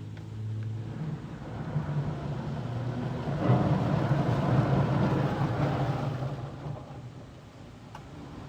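Soft-touch cloth brushes of an automatic car wash spinning against the car, heard from inside the cabin: a low motor hum under a rushing, scrubbing noise that builds to its loudest in the middle and fades again as the brushes pass over.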